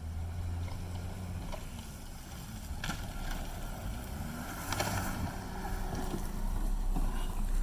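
A car engine running steadily under wind noise on the microphone, growing gradually louder toward the end, with a couple of faint clicks along the way.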